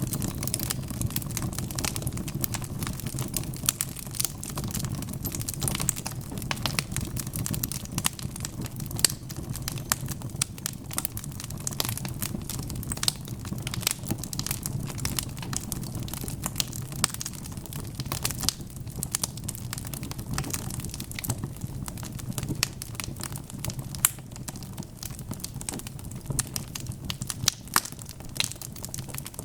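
Wood fire crackling, with frequent irregular snaps and pops over a steady low rumble of burning, and a few louder pops scattered through.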